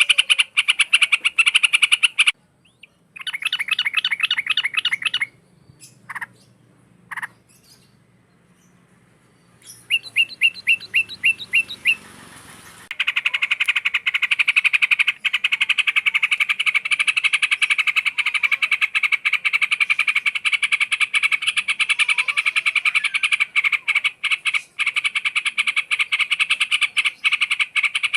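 Trucukan bulbul singing in rapid, chattering trills. There are short breaks early and a near-pause of a few seconds with only isolated calls, then a quick run of separate chirps. After that comes a long unbroken rattling trill through the rest.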